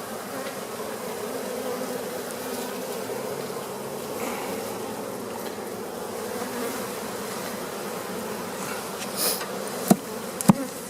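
Honey bees buzzing in a steady hum around an opened hive. Two sharp knocks sound near the end.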